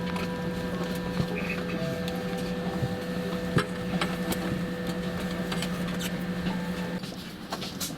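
Steady hum inside an Airbus A320 passenger cabin after landing, with a few scattered clicks. The main hum drops away about seven seconds in, and more clicks and rustling follow.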